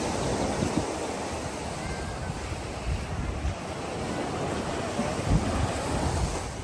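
Ocean waves washing onto the beach, with wind buffeting the microphone in irregular gusts.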